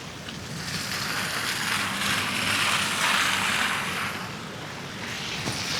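Tyres hissing over a wet, slushy road: a rushing noise that swells from about a second in, peaks around three seconds and fades away.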